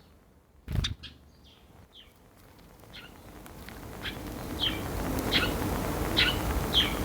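A sparrow chirping: short single chirps repeating about once every 0.7 seconds, starting about three seconds in, over a rising background hiss. A brief knock just under a second in.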